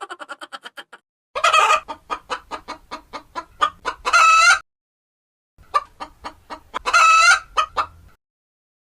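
Chicken clucking in quick runs of short calls, each run ending in a longer drawn-out call, twice over.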